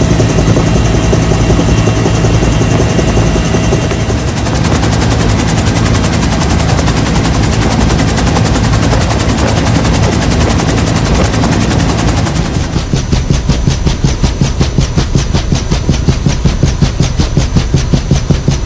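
Loud, steady rotor and engine noise. From about two-thirds of the way in, it turns into a rapid, even beat of about five pulses a second.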